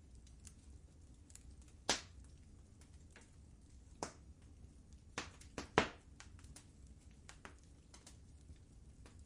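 Fire burning in a fireplace, crackling: a low steady rumble with frequent small ticks and a handful of louder sharp pops, the loudest a little before six seconds in.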